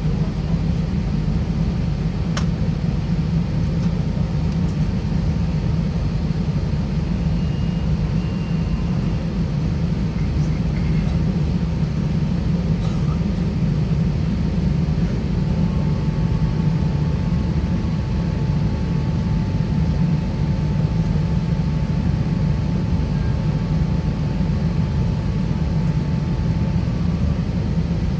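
Steady low rumble inside an Airbus A320-200's cabin on the ground, before taxi. A faint steady high tone joins about halfway through, and there is a single light click near the start.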